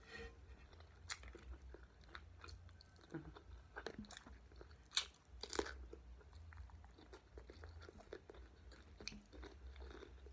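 A person chewing and biting into fresh cucumber: soft wet mouth clicks and crunches, with two louder crunches about five seconds in.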